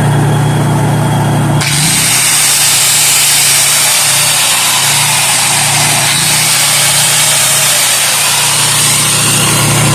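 Electric grinder switched on about a second and a half in and running steadily with a high whine, powered by a Honda generator whose engine hum runs underneath.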